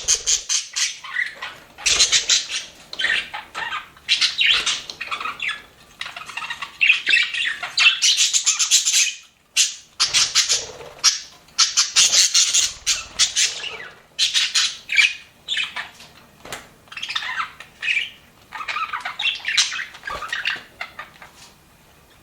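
Pet budgerigars chattering and warbling, with squawks, in busy bursts. There is a brief pause about nine seconds in, and the calls thin out near the end.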